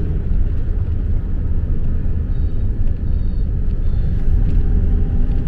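Steady low rumble of engine and tyre noise inside a vehicle moving along a motorway.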